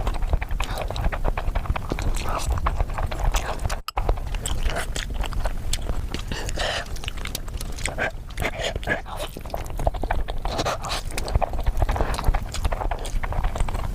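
Close-miked eating of spicy Korean noodles: chewing and slurping with many quick wet clicks and smacks, broken by a brief cut about four seconds in.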